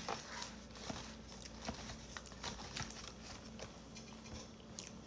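Close-up eating sounds of a person chewing fried chicken wings: irregular small wet clicks and smacks, with a louder tap right at the start.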